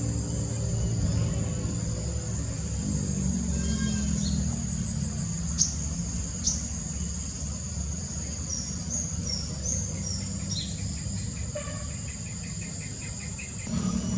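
Insects, such as crickets, buzz with a steady high-pitched drone while wild birds call over it: two sharp downward chirps about halfway in, then a string of short whistled notes and a quick trill near the end. A steady low rumble runs underneath.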